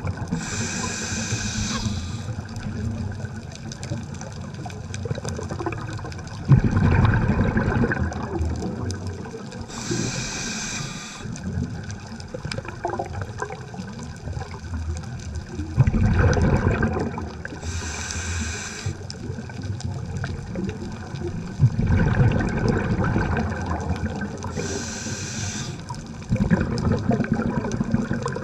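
Scuba diver breathing through a regulator underwater, about four breaths: each inhalation is a short hiss of the regulator, and each exhalation is a sudden rush of rumbling, gurgling bubbles.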